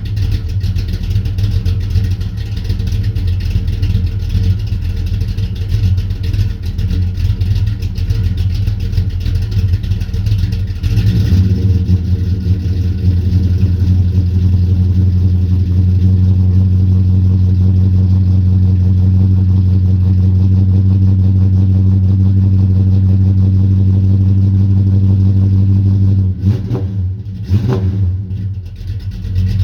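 1970 Dodge Coronet's 440 V8 with a Thumpr cam, running through headers and a 3-inch full exhaust while warming up from a cold start. It idles with a choppy, uneven lope, then settles into a steadier, louder note at a higher speed from about eleven seconds in, with a couple of brief dips near the end.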